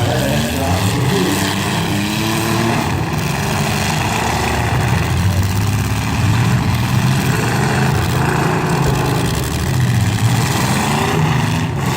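Engines of several demolition-derby stock cars and trucks running and revving together, their pitches rising and falling.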